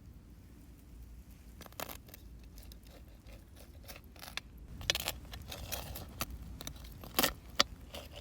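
Scattered light clicks, scrapes and knocks of things being handled, the loudest a little past halfway and near the end.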